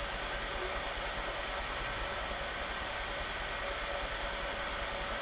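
Chainsaw engine running steadily, making an even, unbroken noise with a faint steady tone.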